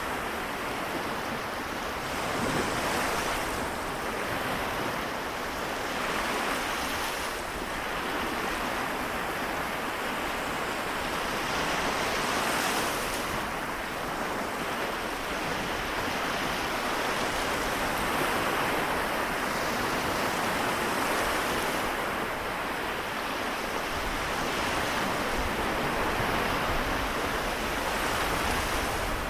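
Seto Inland Sea waves washing in: a steady wash of surf with louder surges every few seconds.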